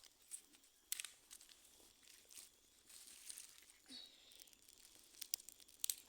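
Faint, scattered crackles and snaps of dry wood and leaves over a low hiss.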